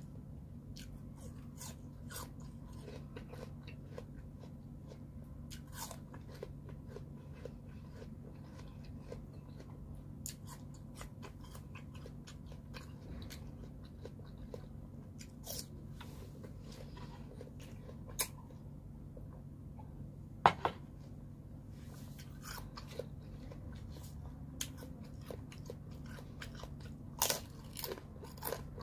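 Close-up chewing and crunching of pear pieces, with many short, wet mouth clicks. A few crunches are louder, the loudest about two-thirds of the way through and near the end. A steady low hum runs underneath.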